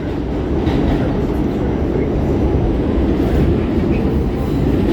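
R46 subway car running along the track, heard from inside the car: a steady low rumble with no distinct events.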